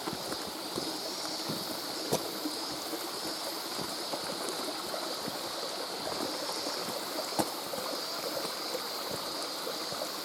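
Mountain stream flowing steadily over rocks, with two sharp clicks about two and seven seconds in.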